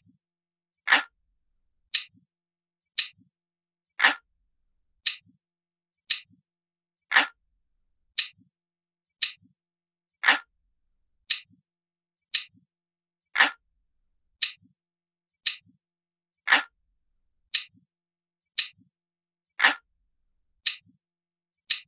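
Crisp, glass-like clock ticking, one tick a second, with every third tick fuller and louder. It is a ticking sound effect made to mimic a high-end modern clock.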